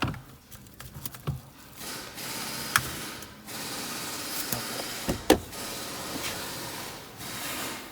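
Handling noise as the steering column assembly is worked into place: a steady rustling hiss that breaks off now and then, with two sharp knocks about three and five seconds in.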